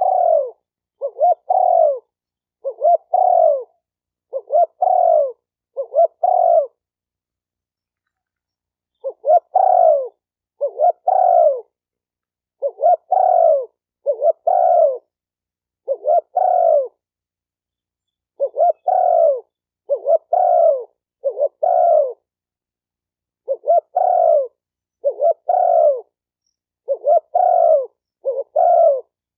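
Spotted dove cooing: a string of low, repeated coo phrases about one to two seconds apart, with a pause of a couple of seconds about a quarter of the way in.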